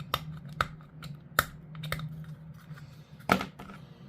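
Irregular sharp clicks and taps of hard plastic model-kit parts being handled and fitted together, the loudest about three seconds in, over a steady low hum.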